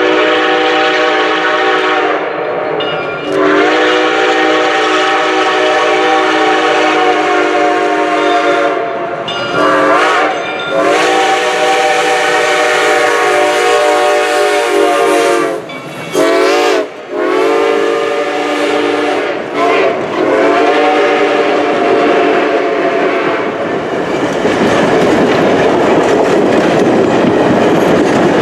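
Six-chime steam whistle on Reading & Northern 4-6-2 steam locomotive #425 blowing a series of long blasts with a few short ones between them, each a steady multi-note chord. After about 24 seconds the whistle stops and the passing train's wheels and cars rumble and clatter on the rails.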